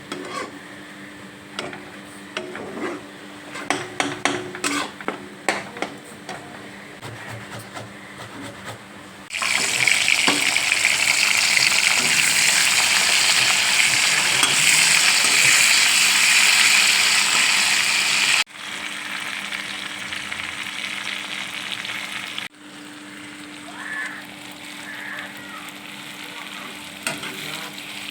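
Food frying in oil in a pan, with a spoon clicking and scraping as it is stirred. For the first nine seconds or so, utensil knocks stand out over a steady low hum. The sizzle then turns loud and even for about nine seconds, and drops back to a quieter sizzle with occasional stirring.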